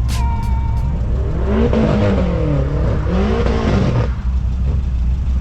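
Car engine revved twice, its pitch climbing and dropping back each time, over a steady low engine rumble.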